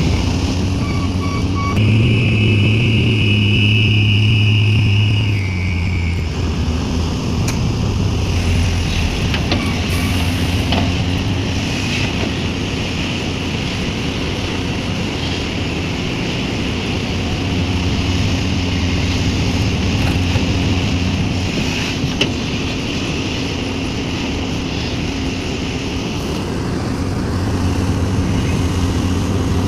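Diesel engine of a Sumitomo SH350 excavator running under working load. It is louder, with a high steady whine, from about two to five seconds in, then settles to a steady drone with a few light knocks.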